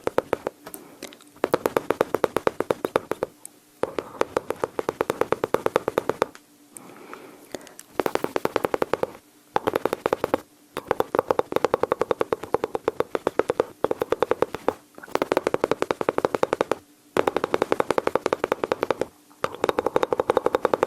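Close-miked mouth sounds imitating machine-gun fire: bursts of rapid clicks with a voiced hum under them. Each burst lasts one to three seconds, with short pauses between them.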